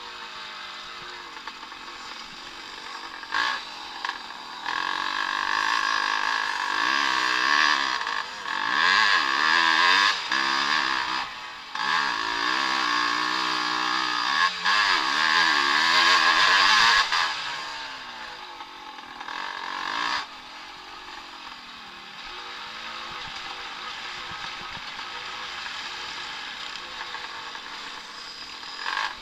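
Vintage motocross bikes racing past, their engines revving up and down through the gears. They are loudest in the middle as riders go by close, then drop back to a quieter, more distant engine drone.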